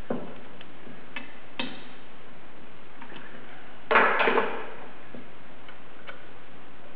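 Wrench working the bolts of the pulley assembly's bearing retainer as they are tightened down: scattered metallic clicks and taps, with a louder short clatter of metal knocks about four seconds in.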